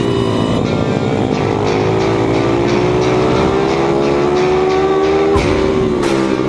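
Pit bike engine pulling hard, its pitch climbing steadily for about five seconds, then dropping sharply as it shifts up a gear and starting to climb again.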